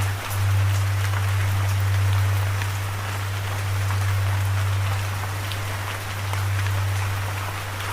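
Steady rainfall, an even hiss with scattered single drops ticking through it, over a loud, steady low hum that drops out for a moment just after the start.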